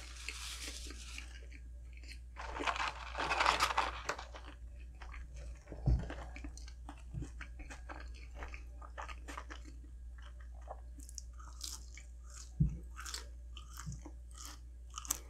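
A person eating fast food close to the microphone: crunchy bites in the first few seconds, then steady chewing with many small wet mouth clicks and two short low knocks.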